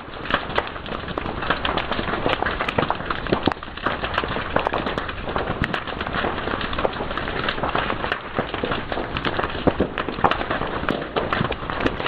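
Fire crackling: a dense run of irregular snaps and pops over a steady hiss.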